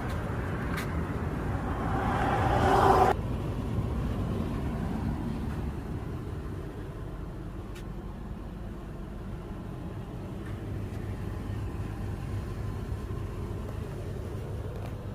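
A car running with a steady low rumble; about two seconds in a louder rushing noise swells up and cuts off suddenly, leaving a quieter steady rumble.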